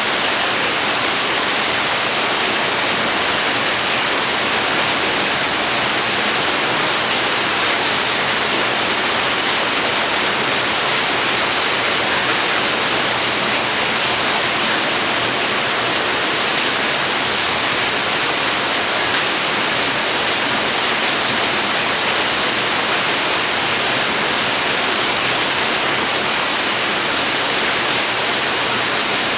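Steady rain falling, an even dense hiss without let-up.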